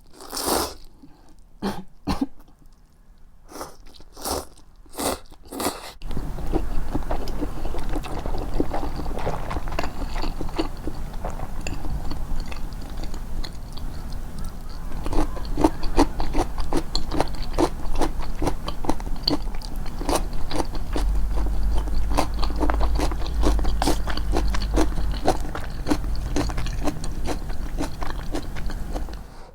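Close-miked, amplified eating sounds: a few separate bites and crunches, then from about six seconds in continuous rapid chewing and crunching with a steady low rumble underneath.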